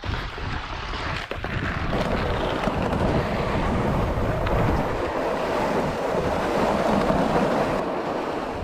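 Sled sliding and scraping down an ice-glazed driveway, a steady rushing hiss that grows about two seconds in, with wind buffeting the microphone.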